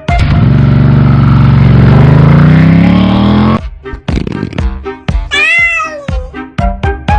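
A loud low drone that rises slowly in pitch for about three and a half seconds, then stops abruptly; beat-driven music follows, and about five seconds in a cat meows once, a long call that rises and falls.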